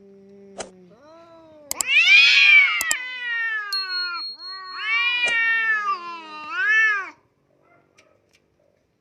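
Domestic cat meowing in a drawn-out series of long, wavering calls. The loudest call comes about two seconds in, and three shorter rising-and-falling meows follow near the end before it stops. A few sharp clicks fall in among the calls.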